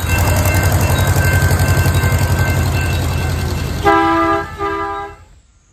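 A train running with a steady rhythmic rumble, then its horn sounds two short blasts near the end before the sound fades out.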